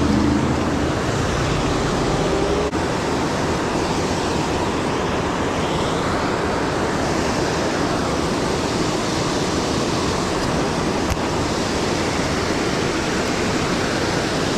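Steady rushing of river water, an even hiss, with a single short click a little under three seconds in.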